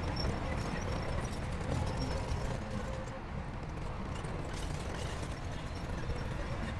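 Shantui crawler bulldozer running, its engine a steady low rumble under scattered clanks from its steel tracks.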